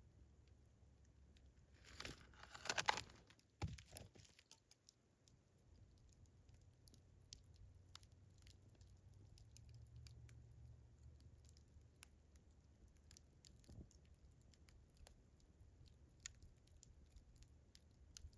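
Campfire crackling: a loud cluster of crackles and pops about two to three and a half seconds in, then faint scattered pops over a low rumble.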